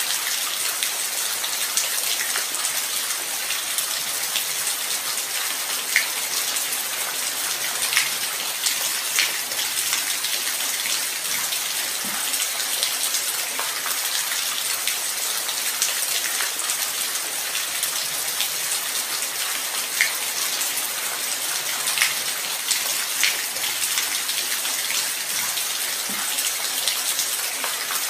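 Steady light rain: a constant hiss with scattered sharper drops ticking against a surface.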